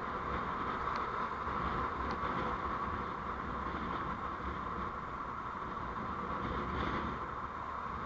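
Steady road and engine noise of a vehicle on the move, picked up by a dash camera's microphone.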